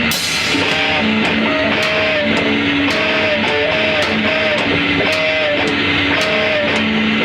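Rock band playing live: an electric guitar figure repeats about once a second over drums, with cymbal hits about twice a second.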